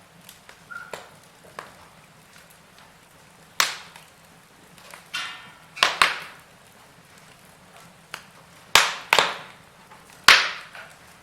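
Wood fire in a fireplace crackling: irregular sharp pops, the loudest coming singly or in quick pairs every second or two through the second half, with a brief hiss just before the middle.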